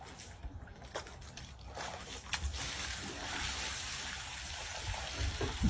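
Water sloshing and splashing, with a few scattered clicks at first, settling about halfway through into a steady rush of running water.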